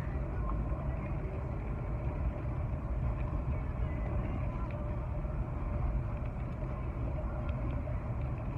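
Steady road and wind noise inside a moving car's cabin, a low rumble with a lighter hiss above it.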